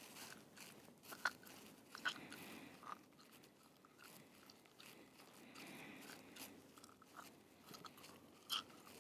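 Faint, scattered crunches and clicks, irregular, with sharper ones about a second in, about two seconds in and near the end.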